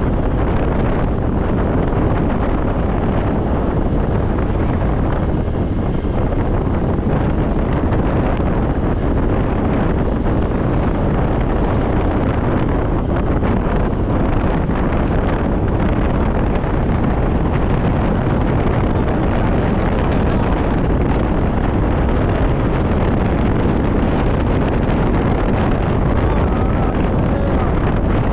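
Steady, loud wind noise buffeting the microphone on a moving scooter, with road and vehicle rumble underneath.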